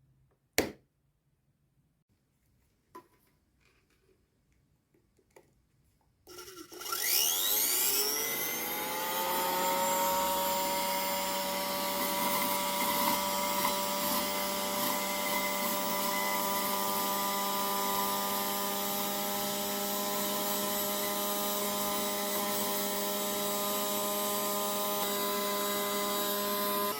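After a click and a few seconds of quiet, the small DC motor and fan of a homemade spray-can vacuum cleaner spins up with a rising whine, then runs at a steady pitch.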